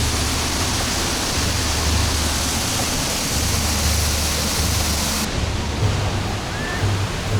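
Waterfall close by: a loud, steady rush of falling water with a low rumble beneath it. The highest part of the hiss dulls abruptly about five seconds in.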